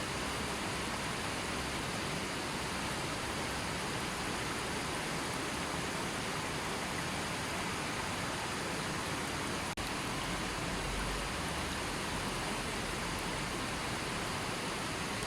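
A gently flowing river, its water running with a steady, even rush and no birds. There is one momentary dropout about ten seconds in.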